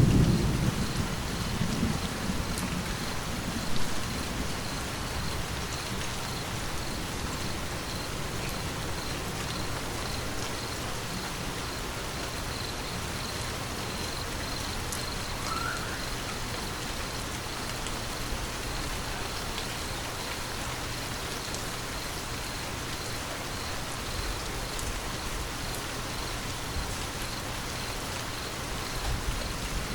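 Steady rain falling, an even hiss, with the tail of a thunder rumble dying away in the first couple of seconds.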